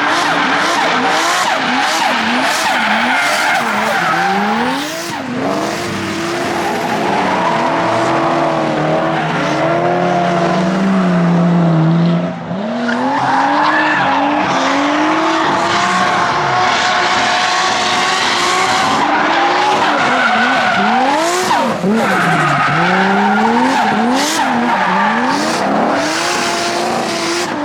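Drift cars sliding with continuous tyre screech, their engines revving up and down again and again as the drivers work the throttle.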